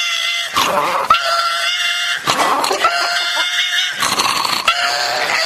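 Dog crying with long, high-pitched, baby-like wails, about four in a row: a distressed protest at being held for ear medicine.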